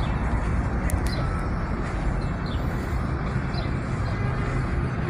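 Outdoor city ambience: a steady low rumble of traffic, with a small bird chirping every second or so.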